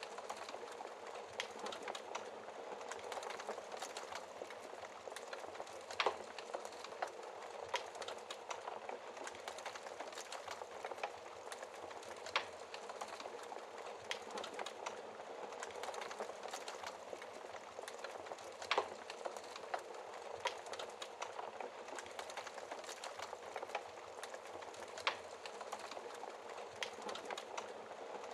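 Wood fire burning in a fireplace: a steady hiss of flames with constant small crackles of burning logs and a sharper pop every few seconds.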